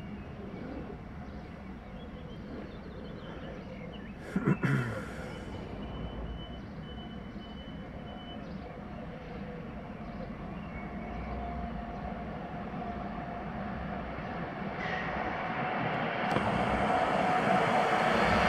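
Siemens Taurus (EU44 Husarz) electric locomotive and its express passenger train approaching a station. The rumble grows steadily louder over the last several seconds, with a steady hum in it. A brief knock about four and a half seconds in.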